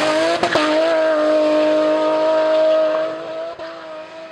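BMW E36 M3's straight-six engine held at high revs as the race car drives away hard, with a brief stutter about half a second in. It then holds a steady high note and fades after about three seconds.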